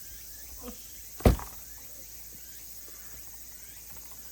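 A single heavy thud about a second in: a cut-off section of the dead poplar's trunk hitting the ground after being pushed off the top.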